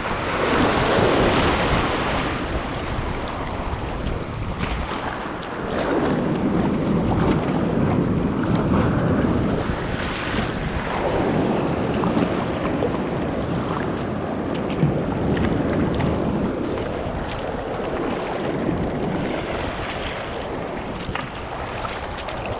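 Sea water washing and sloshing around a kayak, with wind buffeting the microphone; the water noise swells and fades every few seconds.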